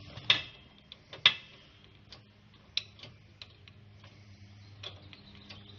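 Irregular sharp clicks and light taps, about a dozen, the loudest about a second in, over a faint steady low hum.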